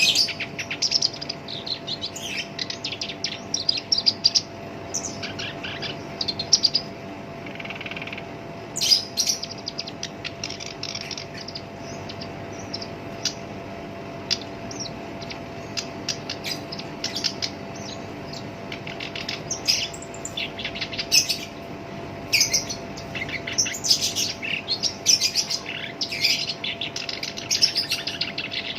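Black-browed reed warbler singing a harsh, rapid chattering song of quick grating notes in bursts. It pauses for several seconds partway through, then resumes densely. A faint steady hum runs underneath.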